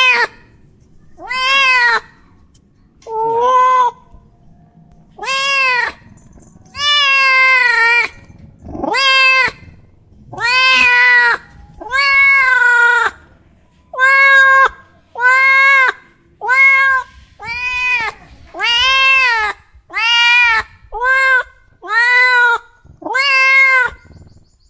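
A cat meowing over and over, about sixteen drawn-out meows, each rising then falling in pitch, coming roughly once every second or so.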